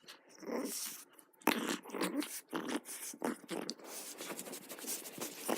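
A dog making short, irregular play noises in quick succession, about a dozen in all.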